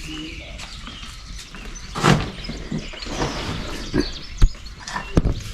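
A few scattered knocks and thuds, the loudest about two seconds in, with birds chirping.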